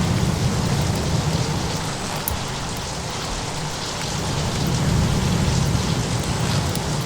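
Storm ambience: a steady hiss of heavy rain over a low rumble that swells twice, with a few faint crackles.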